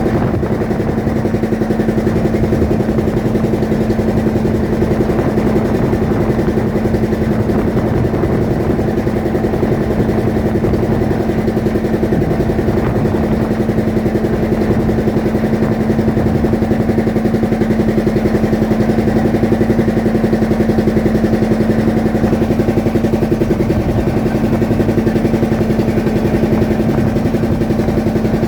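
A fishing boat's engine running steadily at a constant speed, a loud, even drone with a fast regular pulse.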